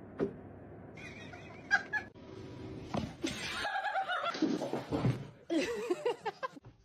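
People laughing in several bursts.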